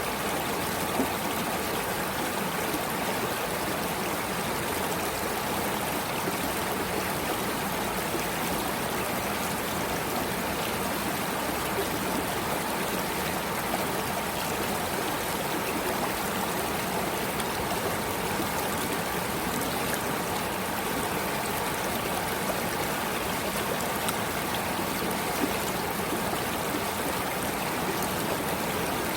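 Stream water flowing steadily, an even, unbroken rush of water.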